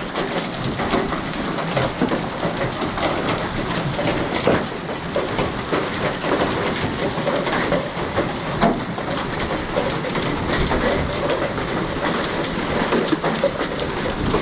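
Heavy rain mixed with quarter-size hailstones hitting the concrete: a dense, even rush of rain with many sharp individual hits scattered through it.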